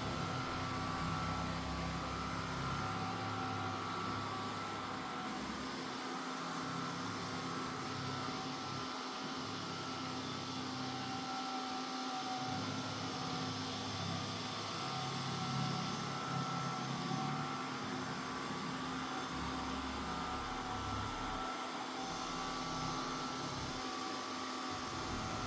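Mova Z60 robot vacuum-mop running: a steady motor whine and suction hiss, with a low rumble that rises and falls as it moves over the floor.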